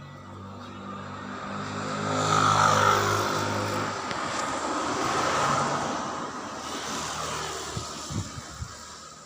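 Propeller aircraft flying past overhead: its engine drone swells to its loudest about three seconds in, drops in pitch as it passes, then fades away.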